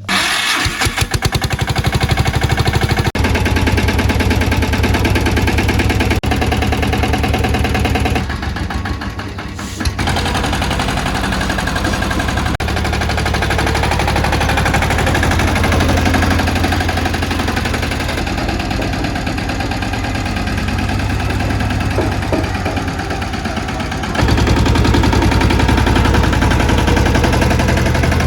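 Mini tractor engine running with a rapid, even chugging. It comes in suddenly at the start, eases off briefly about nine seconds in, and gets louder again for the last few seconds.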